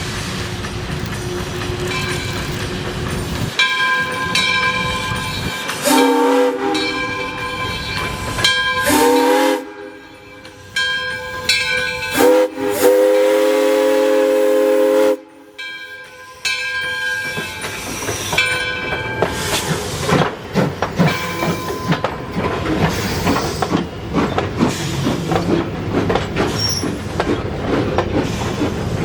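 Steam locomotive whistle sounding several blasts, the last one the longest, as the 2-8-0 Consolidation steam locomotive passes, followed by the clatter and rumble of the train's wheels on the rails.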